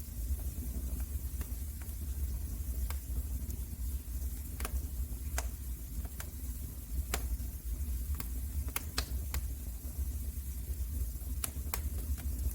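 Wood fire burning in a fireplace: a steady low rumble and soft hiss, with sharp crackles and pops from the burning wood, several in a row around the middle and a couple near the end.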